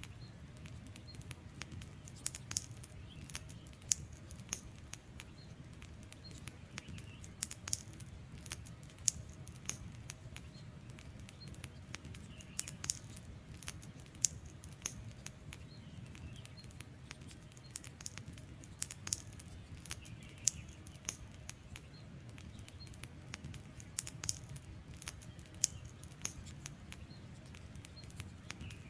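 Wood fire crackling: irregular sharp snaps and pops over a steady low rumble of burning flames.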